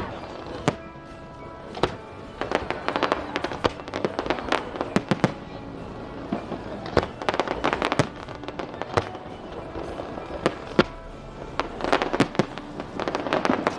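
Fireworks display: aerial shells going off in repeated sharp bangs, with clusters of rapid crackling about a third of the way in, around halfway and near the end.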